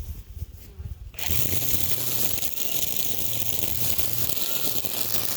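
A string trimmer starts up about a second in and runs steadily, a loud buzzing motor sound with string whine, over faint bee buzzing and a few low knocks before it.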